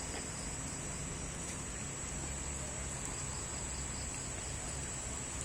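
Steady, high-pitched insect chirring, like crickets or cicadas, over a low, even rumble.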